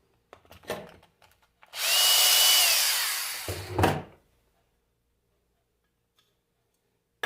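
A power screwdriver backs out a stuck alternator screw. A few light clicks, then the motor runs for about two seconds and its whine falls in pitch as it winds down, followed by a couple of knocks.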